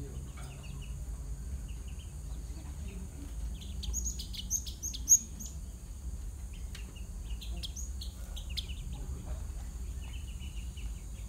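Java sparrows chirping: short high chirps throughout, with a busier run of sharper, higher notes about four to five seconds in. A single sharp click just after that is the loudest moment, over a steady low hum.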